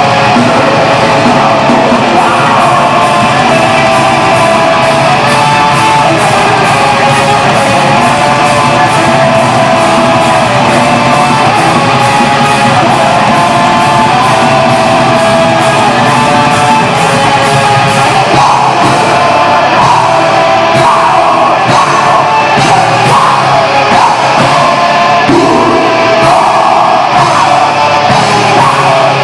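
Heavy metal band playing live: distorted electric guitars over fast, evenly hammered drumming, with shouted vocals.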